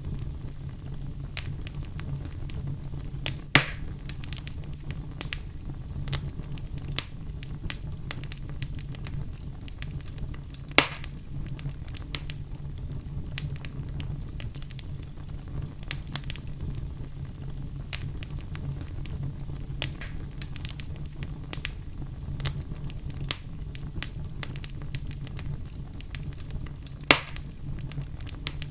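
Wood fire crackling in a fireplace: a steady low rumble with frequent small crackles, and three louder pops spread through.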